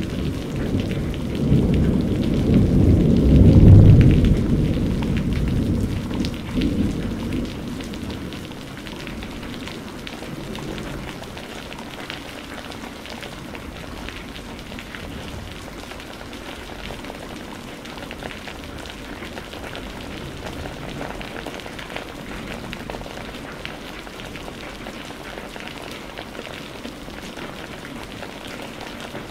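Thunder rumbling over steady rain, loudest about four seconds in and dying away by about seven seconds, leaving an even rain hiss.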